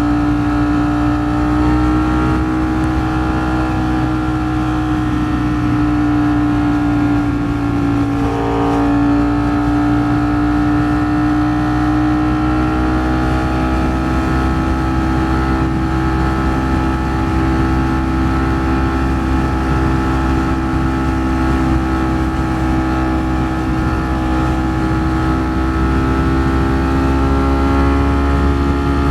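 Ducati Streetfighter V4 S's 1,103 cc V4 engine running at a steady freeway cruise, its pitch holding nearly level with a slight dip about eight seconds in. The engine is heard from the rider's own microphone over a low wind rumble.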